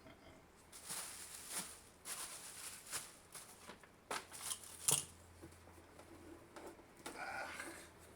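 Crinkling and rustling of packaging being handled, with scattered light clicks and knocks, the sharpest about five seconds in.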